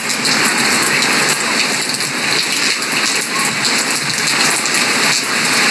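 Heavy hurricane rain pouring down, a loud steady rush of water with a dense patter of drops.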